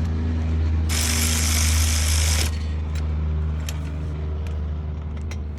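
Power tool running a brake caliper bolt down for about a second and a half, starting and stopping abruptly, over a steady low hum. A few light clicks of metal follow.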